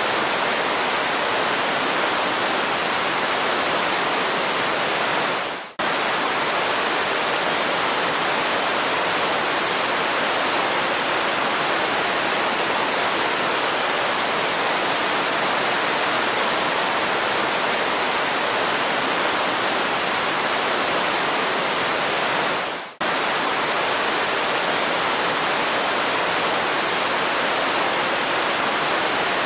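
Waterfall: a steady, even rush of falling water. It dips out briefly twice, about six seconds in and again near 23 seconds, fading down and then cutting straight back in.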